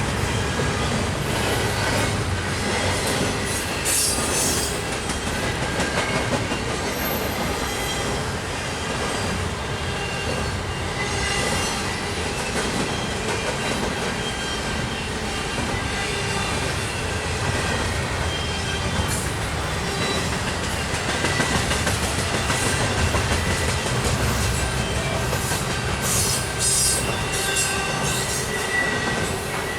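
Intermodal double-stack freight cars rolling past on steel wheels: a steady rumble with thin, high squealing tones from the wheels and a few sharp clanks.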